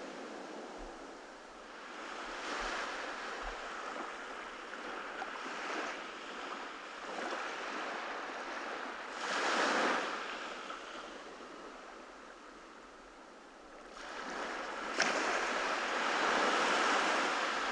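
Ocean surf breaking and washing up on a beach, a steady hiss that swells with a wave about halfway through and again with a larger wave near the end. A short sharp crack comes just as the last wave rises.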